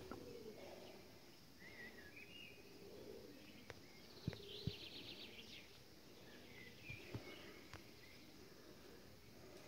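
Faint outdoor birdsong: a few short chirps and a brief buzzy trill about halfway through, with a few faint taps.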